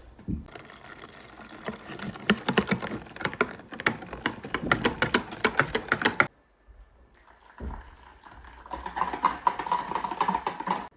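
Rapid, irregular clicking and tapping in two stretches, cut off abruptly about six seconds in and resuming about a second later with a faint steady tone underneath.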